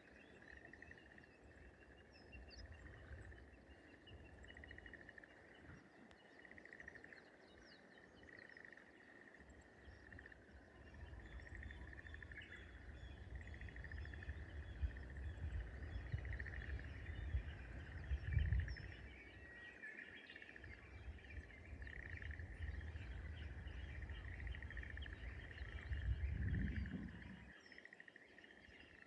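Rice-paddy morning ambience: a steady chorus of rapid rattling animal calls at one pitch, with scattered bird chirps above it. A low rumble builds from about a third of the way in and swells twice before dropping away near the end.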